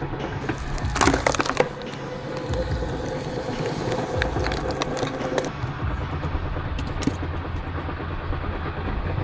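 Firewood-processing machine running with a low steady engine drone. Wood cracks and splinters in a quick cluster about a second in, and a steady whine sounds for about three seconds midway.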